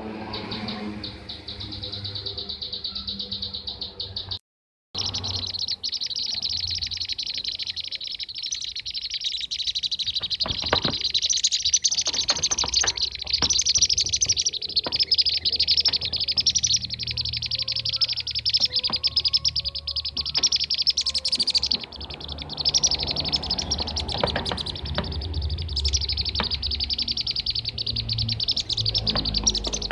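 A flock of bee-eaters chattering in a dense stream of rapid, overlapping chirps and trills. The sound drops out for half a second about four and a half seconds in. This is a bird-lure recording of bee-eater calls.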